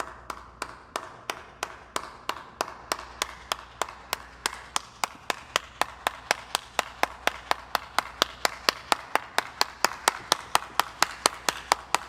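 Steady rhythmic claps, about three to four a second, getting slightly faster, over a faint low hum.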